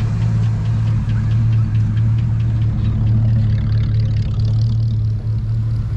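Engine of a large vintage vehicle idling steadily: a deep, even running with a light regular ticking over it through the first half.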